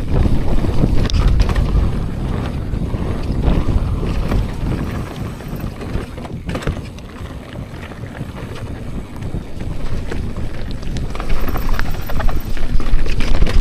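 Mountain bike descending a dirt downhill trail: wind rumbling on the microphone over the tyres rolling on dirt, with scattered rattles and knocks from the bike, louder over the last few seconds.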